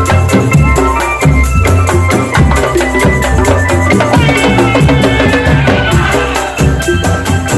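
A drum band playing loud music: dense, rapid drum strokes over a pulsing bass beat, with a melody carried on top.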